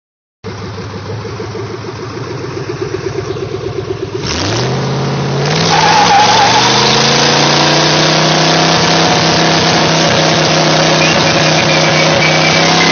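V8 engine in a GAZ Volga car running with a pulsing beat, then revving up about four seconds in and running on loud and steady at high revs.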